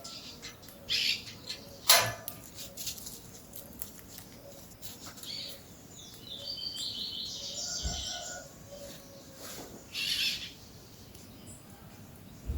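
Peach-fronted parakeets calling: short harsh screeches about a second in and again near the end, with a run of chattering notes in the middle. A single sharp click sounds about two seconds in.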